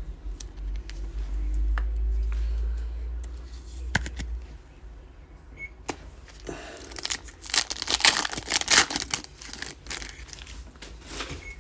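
A foil trading card pack being torn open, the wrapper crinkling loudly for a few seconds, after a run of small clicks from cards and packs being handled.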